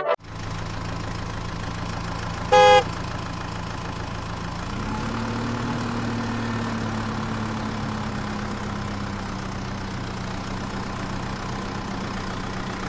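A motor vehicle engine idling steadily, its pitch rising slightly about five seconds in, with one short horn honk about two and a half seconds in.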